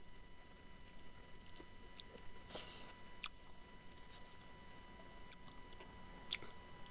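Close-miked mouth sounds of someone chewing smoked pork: scattered soft wet smacks and clicks, the sharpest about two and a half seconds in, again a little after three seconds, and near the end.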